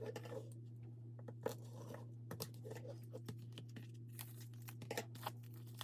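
Paper and card packaging being handled: light crinkling and tearing with many small irregular clicks and taps as album contents such as photo cards and stickers are pulled out and sorted, over a steady low hum.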